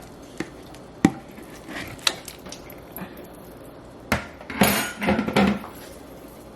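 A spoon knocking sharply against a container and the soup pot a few separate times, then a denser scraping clatter of about a second, as packed shredded chicken and beef is emptied into the pot.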